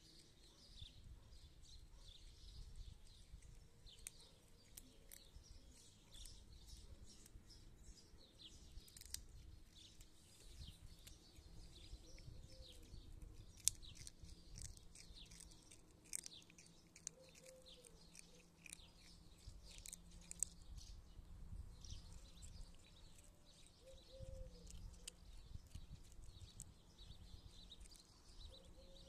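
Faint birds chirping, with many small scattered high clicks and crackles and a few faint short calls every few seconds.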